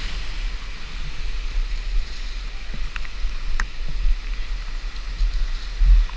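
Creek water rushing steadily, with wind buffeting the microphone as a low rumble and a few faint clicks.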